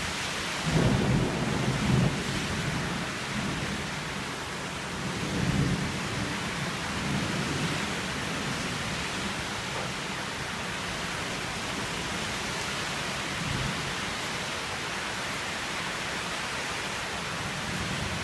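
Steady rain with thunder rumbling: a loud low rumble about a second in, then weaker rumbles around five and seven seconds.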